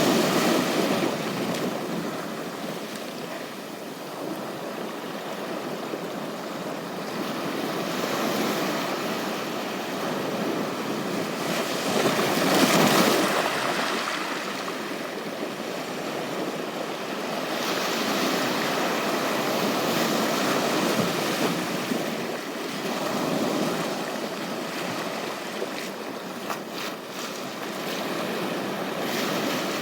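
Waves washing onto a beach, the surf swelling and easing every few seconds, loudest at the start and about twelve seconds in.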